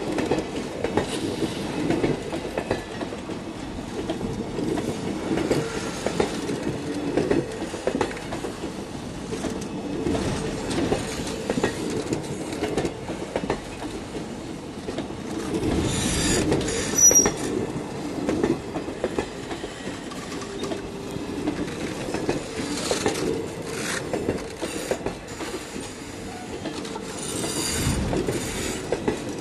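Wagons of a goods train rolling past, their wheels clattering over the rail joints in a steady run of clicks. It swells louder about halfway through and again near the end.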